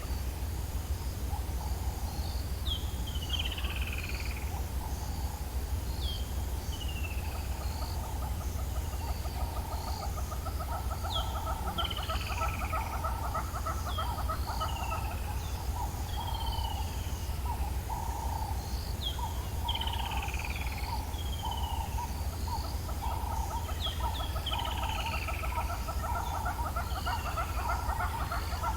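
African bush dawn chorus: birds give repeated falling whistled notes every couple of seconds over a rapid, lower pulsing trill, with a steady low rumble underneath.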